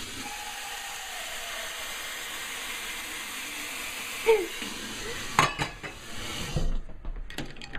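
A steady hiss that stops abruptly about a second before the end, with a sharp click shortly before it stops.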